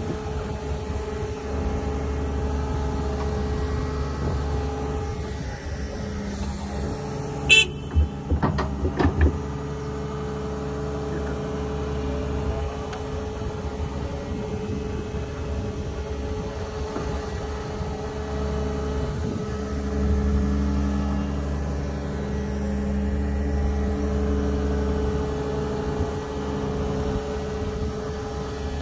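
Caterpillar heavy machine's diesel engine running steadily, with a few sharp knocks about eight to nine seconds in. The engine grows a little louder about twenty seconds in.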